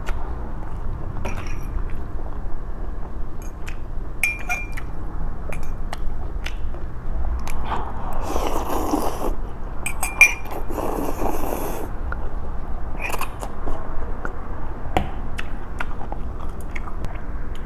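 Eating noodles from a bowl: scattered light clinks of a utensil against the bowl with chewing, and two long slurps of noodles about eight and eleven seconds in.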